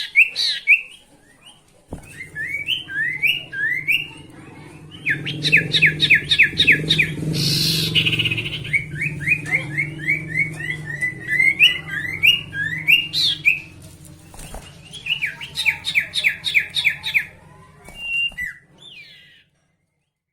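Sirtu songbird singing in bursts of rapid, sharp rising chirps, several a second, with short pauses between runs; this is the lively, full song keepers call gacor. A low hum runs underneath through the middle.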